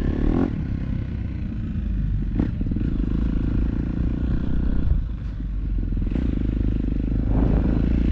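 Dirt bike engine running steadily, with a couple of short knocks about two and a half and five seconds in.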